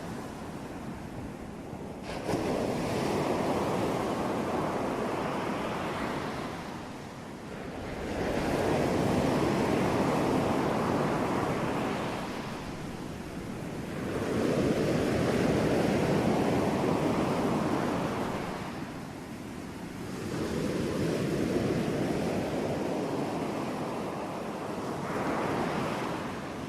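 Ocean surf: waves breaking in five rushing surges about six seconds apart, each swelling and then fading away.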